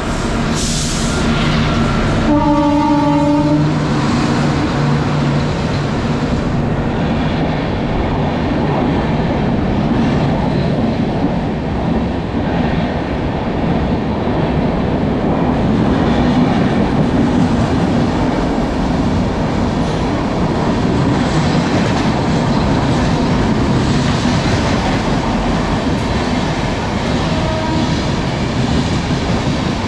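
A train running through a station at speed without stopping: its horn sounds about two seconds in for a couple of seconds, then the steady rumble and wheel clatter of the coaches passing carry on, with a faint horn again near the end.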